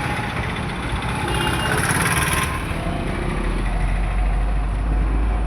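Busy Indian road traffic: engines of cars, motorcycles and trucks running and passing continuously, with one vehicle passing close about two seconds in and a heavy low engine rumble building near the end.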